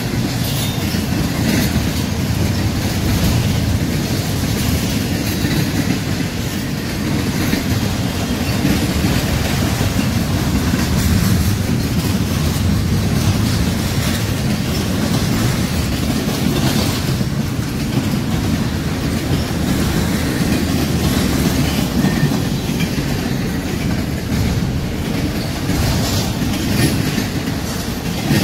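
Double-stack intermodal container train rolling past at close range: a steady, loud rumble of steel wheels on rail, with occasional clacks as cars pass over the rail joints.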